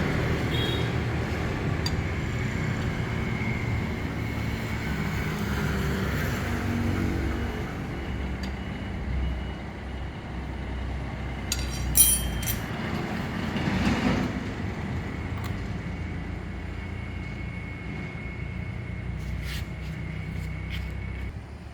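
A motor running steadily, its pitch wavering, with a sharp click about twelve seconds in.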